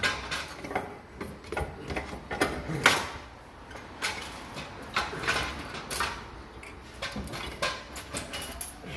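Irregular metallic knocks, clunks and scrapes as a diesel exhaust manifold with its turbo still attached is worked and levered out of a cramped engine bay. The loudest knock comes about three seconds in.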